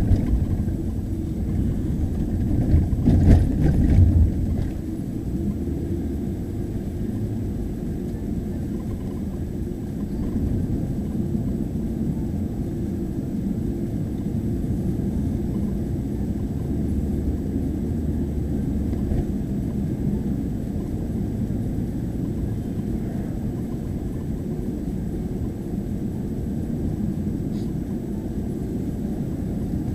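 Steady low rumble of a police car, heard from inside the cabin, with a few louder knocks and rustles about three to four seconds in.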